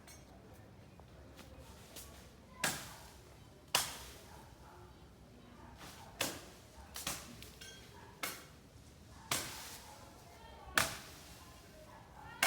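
A series of sharp knocks or blows, about eight over ten seconds at uneven spacing, each ringing out briefly, over a low steady background.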